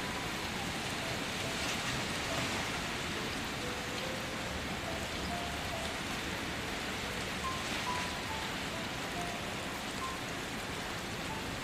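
Steady rain falling, an even hiss with no let-up. A faint, slow melody of single held notes sounds underneath.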